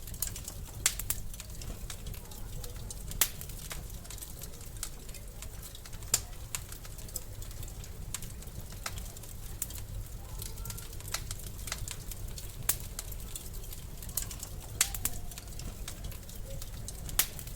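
Wood fire in a fireplace crackling: irregular sharp pops and snaps, a few louder ones scattered through, over a low steady rumble of the flames.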